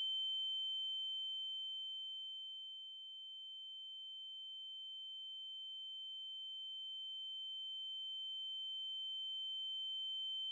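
Steady high-pitched electronic sine tone with a fainter lower tone beneath it, fading over the first few seconds and then slowly growing louder.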